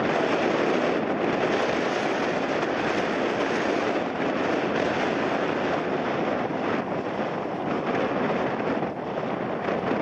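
Airliner coming in to land in a strong crosswind: a steady, loud rush of engine noise mixed with wind.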